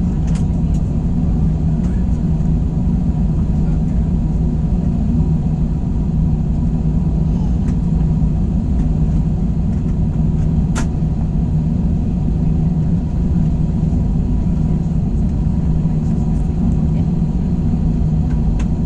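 Steady low cabin rumble inside an Airbus A321, its engines running at idle on the ground before takeoff, with an even hum underneath. A single sharp click sounds about eleven seconds in.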